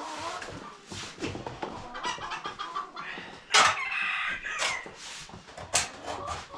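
Chickens clucking, with a rooster crowing about halfway through.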